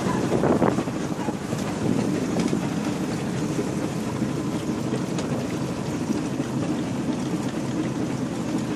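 Passenger boat under way on the river, its engine running steadily, with wind buffeting the microphone. A brief louder rush of noise comes about half a second in.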